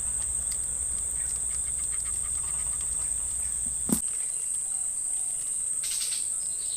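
Insects droning steadily at a high pitch, with a single sharp click about four seconds in.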